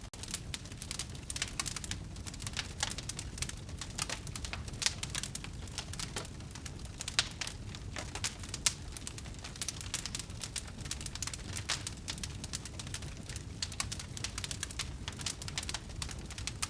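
Wood fire in a fireplace crackling, with frequent irregular sharp pops over a low steady rumble of burning, a few pops louder than the rest in the middle.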